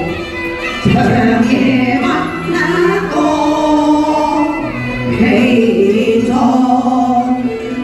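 Cantonese opera music: a melody of held, wavering notes, with several parts sounding together.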